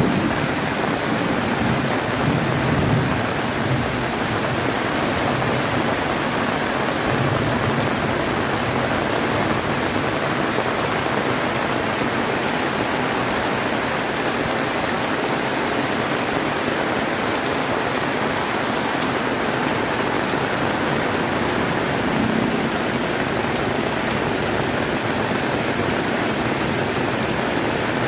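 Heavy tropical rain pouring down in a steady, dense hiss, with low thunder rumbles near the start and again about a third of the way in and near the end.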